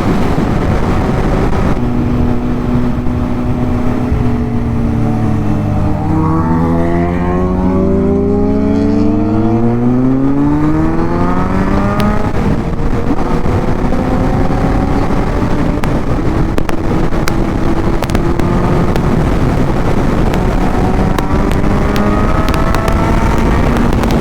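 Kawasaki inline-four sport motorcycle engine accelerating on the road, over a steady rush of wind and road noise. The engine note climbs steeply for several seconds, drops at a gear change near the middle, and climbs again near the end.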